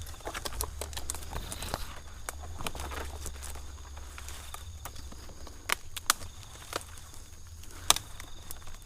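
Scattered sharp knocks, cracks and rustling from a climber working his way up the trunk of an oil palm among its old fronds, with a few louder cracks in the second half.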